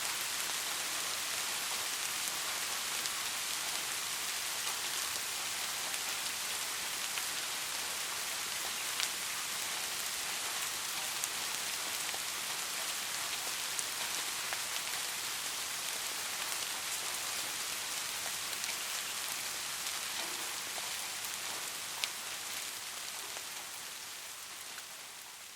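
Steady rain falling on a street, an even hiss with an occasional louder drop, fading down near the end.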